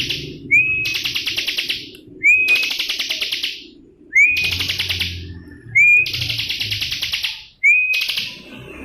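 Bar-winged prinia (ciblek) singing: a loud phrase made of a short rising whistle and a fast buzzy trill, repeated five times at regular intervals.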